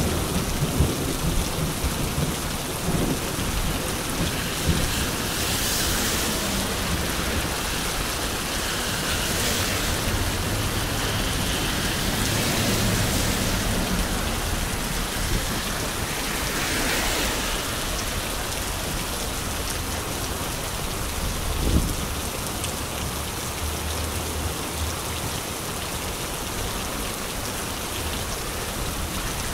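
Steady rain falling on an umbrella overhead and on the wet street, an even hiss with a few brief swells. There is a single thump about three-quarters of the way through.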